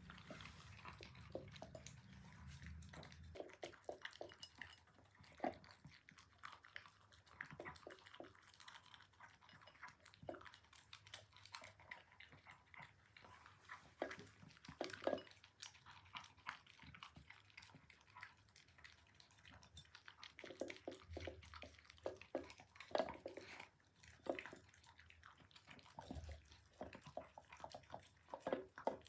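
West Highland White Terrier eating, with soft irregular chewing and crunching sounds that come in clusters with short pauses between.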